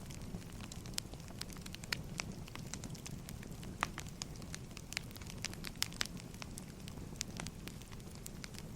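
Wood fire crackling: irregular sharp pops and snaps, several a second, over a low steady rumble of burning logs.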